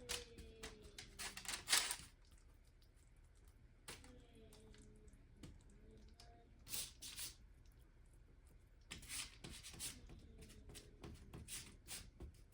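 Faint kitchen handling sounds: scattered clicks and short rustling scrapes in small clusters, with a quieter stretch in the middle.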